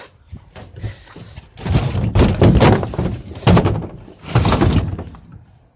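Thuds and scraping from a heavy load being shifted, in three loud stretches between about two and five seconds in.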